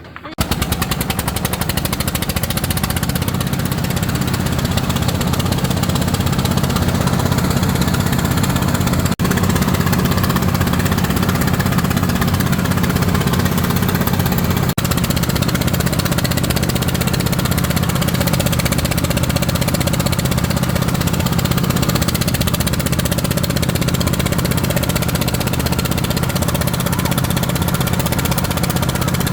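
A small engine running steadily at a constant speed, starting abruptly just after the beginning, with two very brief breaks partway through.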